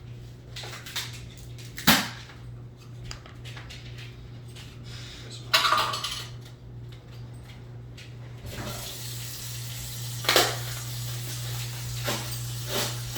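Water running steadily from a tap, starting about two-thirds of the way in, over a low steady hum, with a few short clunks and knocks.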